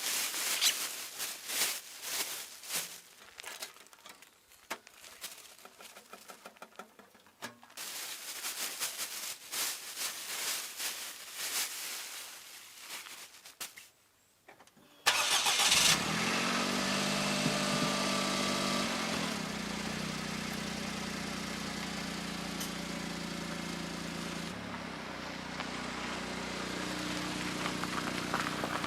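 Irregular clattering and rustling handling noises, then about halfway through a Suzuki Super Carry kei truck's small engine starts suddenly and settles into a steady idle.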